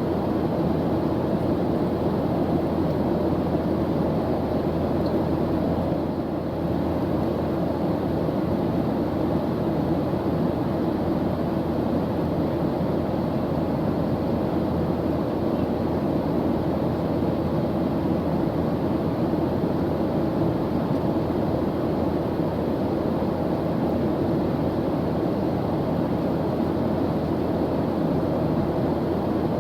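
Airplane engine noise: a steady, even drone with most of its weight in the low and middle range and a faint hum held within it, unchanging throughout.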